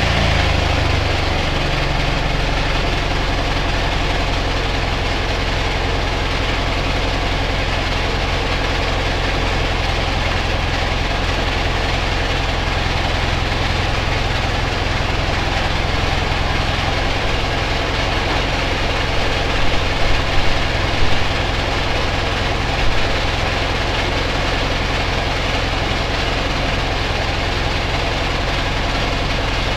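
Ural motorcycle's flat-twin engine idling steadily after a rev dies away in the first second, with a few brief louder blips about two-thirds of the way through.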